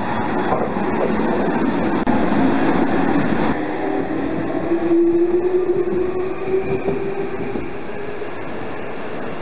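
Nankai 2000 series electric train pulling out of a station: wheels rumbling on the rails, then a motor whine that rises slightly in pitch as it gathers speed.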